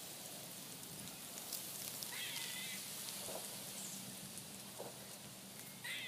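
A squirrel calling: two short, wavering high-pitched squeals, one about two seconds in and one near the end, over a steady background hiss.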